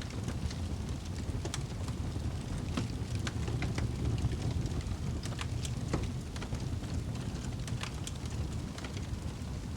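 Wood fire burning in a fireplace: a steady low rumble of flames with frequent small, irregular crackles and pops, one louder pop about six seconds in.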